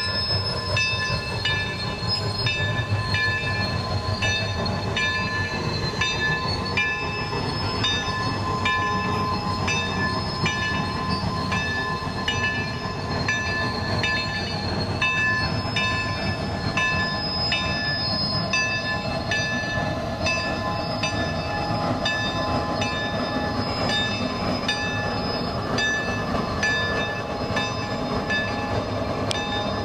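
A passenger train hauled by a Shay geared steam locomotive rolls past steadily, with a regular clack about twice a second and a few steady high squealing tones over the rumble of the wheels.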